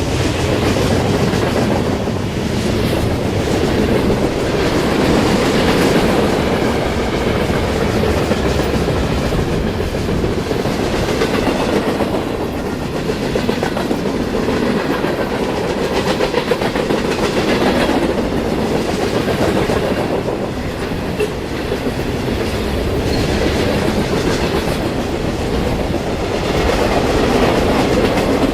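A train's cars rolling past close by, the wheels clacking over the rail joints in a steady stream.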